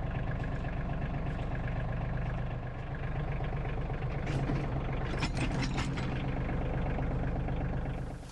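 Tractor engine running steadily, with a few sharp clicks and knocks about four to six seconds in.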